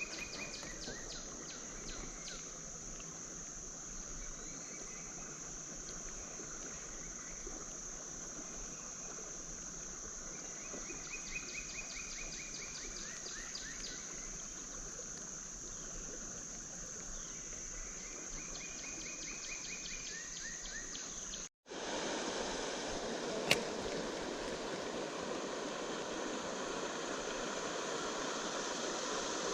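Peaceful riverside morning ambience: a steady high insect drone, with short chirping trills repeating three or four times. About 21 seconds in it cuts to the rushing of river water, louder and fuller, with one sharp click a couple of seconds later.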